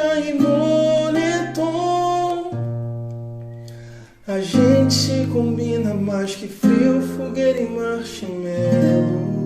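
Acoustic guitar strumming chords under a sung melody. The sound drops away briefly about four seconds in, then the strumming comes back.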